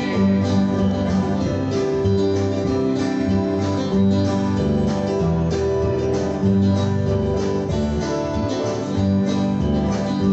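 Acoustic guitars and a bass playing a country-gospel instrumental passage between verses, with a steady strummed beat.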